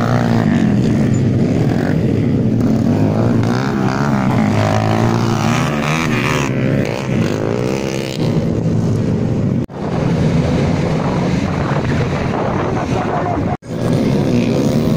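Dirt bike engines revving hard as the motorcycles race round a dirt flat-track, their pitch rising and falling with the throttle. The sound cuts out suddenly twice, for a moment each, about two-thirds of the way in and near the end.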